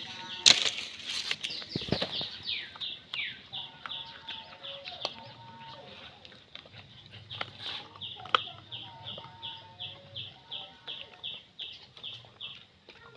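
A bird calling in a steady run of short high chirps, about three a second, each dipping slightly in pitch. A few sharp knocks sound near the start and again after about eight seconds.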